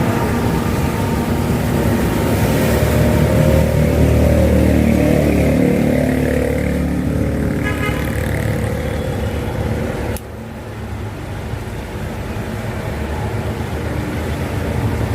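Road traffic: motorbike and car engines passing close by, loudest a few seconds in, then dropping abruptly to a quieter traffic hum about ten seconds in.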